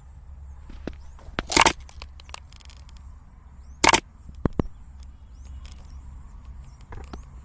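Two loud sharp knocks a little over two seconds apart, with scattered smaller clicks, over a low steady rumble.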